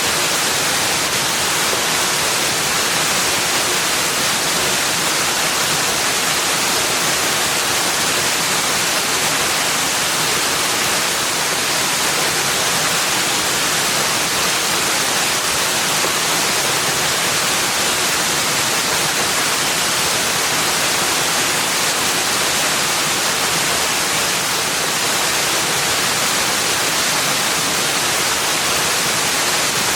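Steady, even rushing hiss of water, unbroken and without birds or other events.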